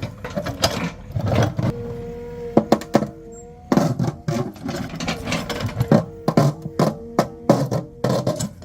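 JCB 3DX Plus backhoe loader working in stone: irregular metallic clanks and clatter of rock against the bucket, over a steady whine from the machine's engine and hydraulics.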